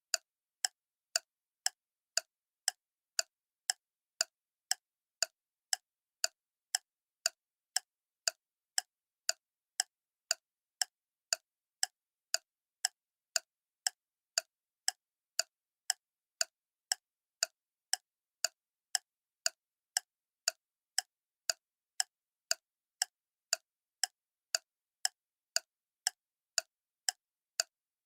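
Clock ticking steadily, about two sharp ticks a second with silence between them.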